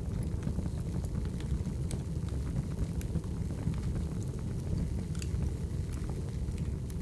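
Wood fire burning: a steady low rumble of flames with small crackles and pops scattered irregularly throughout.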